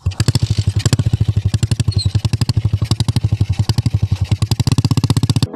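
Small single-cylinder engine of a custom BMX-style Cub motorcycle running steadily at low revs, a loud, even exhaust beat of about thirteen pulses a second. It cuts off abruptly near the end.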